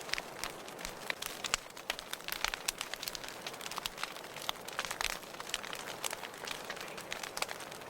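Wood fire crackling in a fireplace: a steady hiss with dense, irregular pops and snaps.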